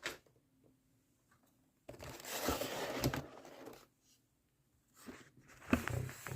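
Packaging being handled: a rustling, tearing-like scrape of about two seconds as a model locomotive box is handled and opened, with a few smaller handling noises near the end.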